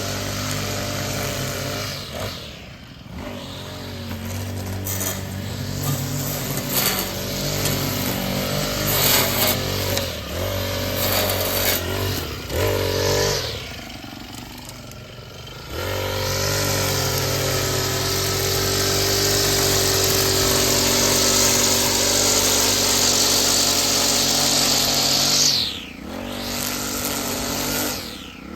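Small petrol engine of a handheld lawn-care tool running hard, revved down to near idle and back up about three times, with a high hiss while it is held at full throttle.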